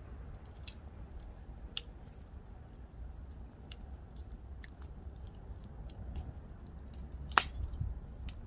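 Wood campfire crackling, with scattered sharp pops and one much louder pop near the end, over a steady low rumble.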